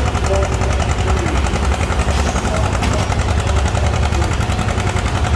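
Antique farm tractor engine running loud and steady.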